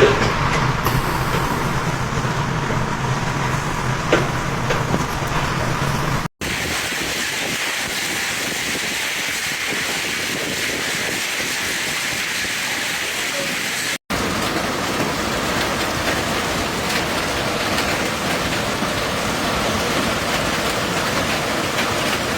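Steady rushing noise of a heavy storm downpour, with a low hum under it for the first six seconds. The sound cuts off abruptly twice, at about six and fourteen seconds, each time starting again as a fresh stretch of the same steady noise.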